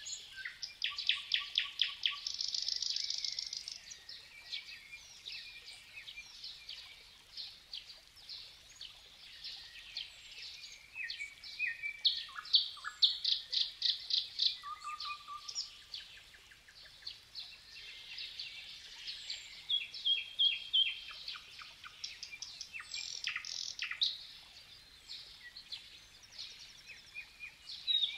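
Several songbirds singing at once: bursts of fast trills of repeated high notes between scattered short chirps and calls.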